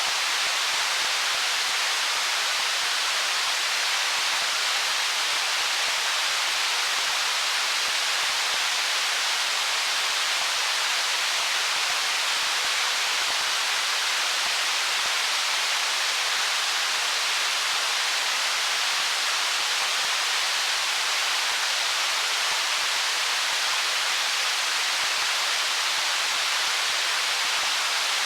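Stream water rushing over stones: a steady, even hiss, mostly high in pitch with little low rumble, unchanging in level.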